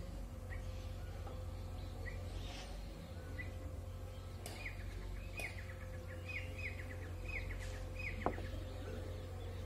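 Small birds chirping, with a quick run of short falling chirps through the middle, over a steady low hum. Near the end comes a single sharp knock as the stone grinding pestle (batta) is set down on the stone floor.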